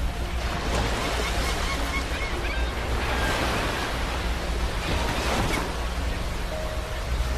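Sea waves breaking on a beach, the surf swelling and washing out about three times.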